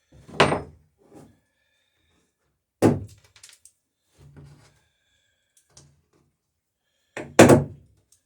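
Hammer blows on nails and burrs while riveting a wooden dory's planking: three loud, sharp thunks a couple of seconds or more apart, with a few lighter knocks and taps in between.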